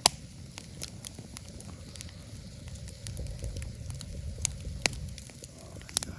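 Wood campfire crackling, with scattered sharp pops, one loud pop right at the start and a few more near the end.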